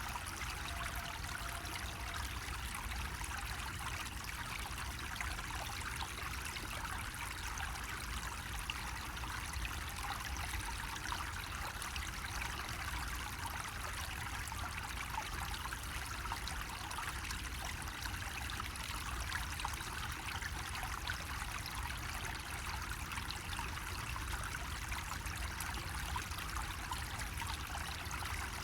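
Water trickling steadily from a bamboo faucet, an even, unbroken splashing flow.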